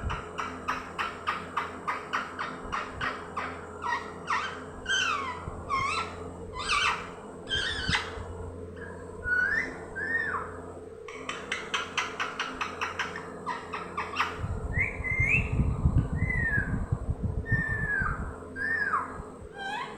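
Pet green parrot calling: runs of rapid short chirps, about six a second, alternate with whistled notes that sweep up and down. A low rumbling noise comes in under the calls about two-thirds of the way through.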